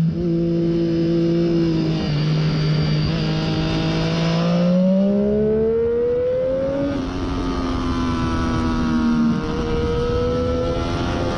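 Triumph Daytona 675's inline three-cylinder engine through a Hindle slip-on exhaust, under hard riding on track: it holds steady, then pitch rises under acceleration, and it drops in several steps at the gear changes.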